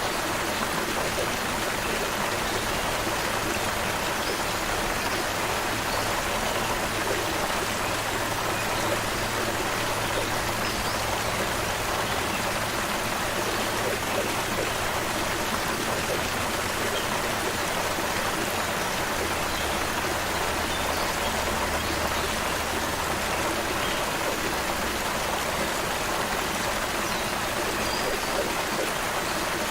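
Stream water running over rocks in a steady, even rush.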